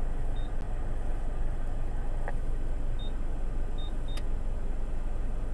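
Steady low rumble of a car idling, heard from inside the cabin, with a few short faint high beeps and two light clicks.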